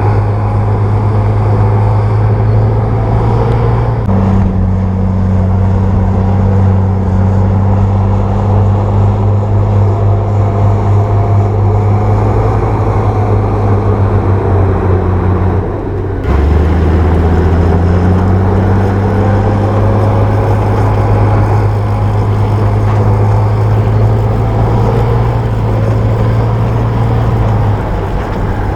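Bulldozer's diesel engine running steadily in a loud, low drone while the dozer works. The engine note shifts abruptly about 4 seconds and about 16 seconds in.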